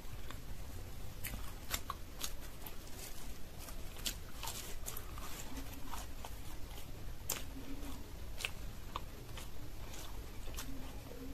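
Close-miked eating sounds: wet mouth clicks and smacks while chewing a piece of green-peas kochuri, a fried flatbread, with a few brief low hums in between.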